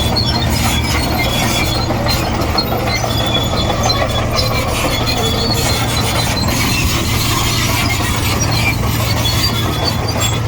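Komatsu D58E crawler bulldozer's diesel engine running steadily under load, with short high-pitched squeals from its steel tracks.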